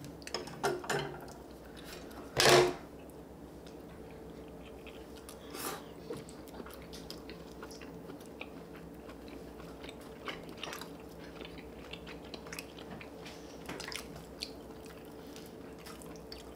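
Two people chewing and biting into spicy stir-fried chicken and rice cakes, with scattered small clicks of chopsticks and spoons. One short, much louder sound comes about two and a half seconds in, over a faint steady hum.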